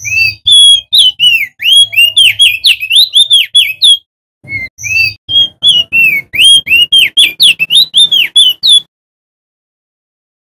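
Male crested darkeye (opior jambul) singing loudly: two rapid runs of quick, arching whistled notes, the first about four seconds long and the second ending almost nine seconds in, followed by a pause.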